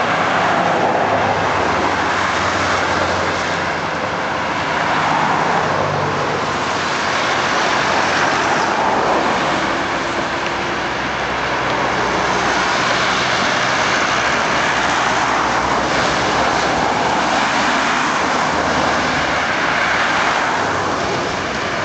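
Steady road traffic, cars passing one after another in a continuous noise that swells and eases every few seconds.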